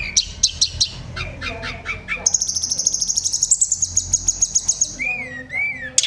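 Song of a tledekan gunung, a mountain songbird: a quick run of sharp chirps, then a fast, high trill lasting about three seconds, then two short slurred whistles near the end.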